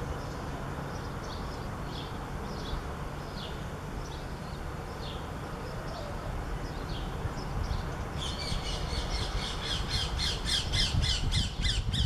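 Birds calling: short, high calls scattered at first, then a fast run of loud, harsh calls, about five a second, starting about two-thirds of the way in. A steady low rumble lies underneath.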